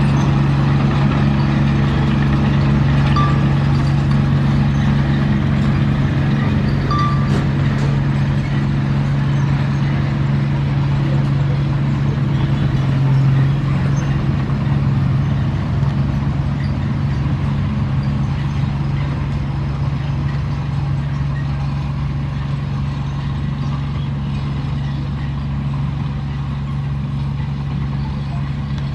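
Diesel engine of a heavy earthmoving machine running at a steady pitch, easing off slightly toward the end.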